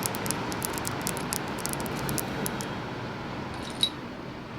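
Rapid light taps and clicks on an olive shell fragment, many in quick succession for the first couple of seconds and one more near the end, over a steady wash of ocean waves.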